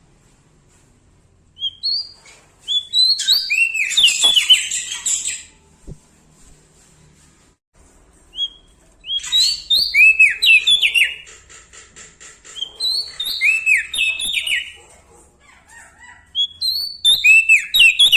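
Prenjak daun Lombok singing in four loud bursts, each a quick run of arched, down-slurred whistled notes, the first starting about a second and a half in and the last still going at the end.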